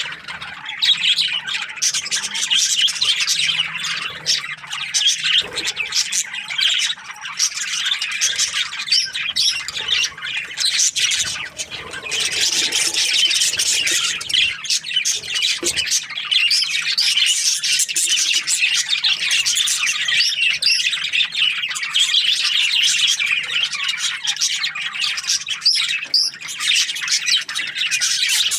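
A flock of budgerigars chirping and chattering without a break, with many high calls overlapping.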